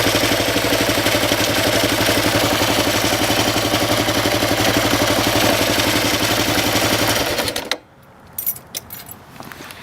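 Kawasaki KLR650's single-cylinder engine running steadily, the drive chain turning with the noise the owner traced to a front sprocket with jagged teeth. About three-quarters of the way through the engine cuts off suddenly, followed by a few clicks.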